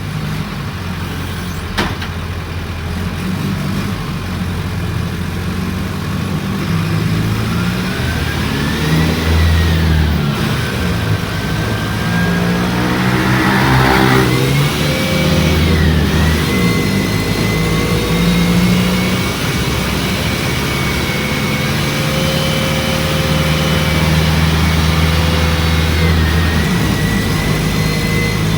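Mercedes-Benz OF-1722M bus's diesel engine running as the bus drives, with a high whine that rises and falls in pitch along with it, and a short hiss about halfway through.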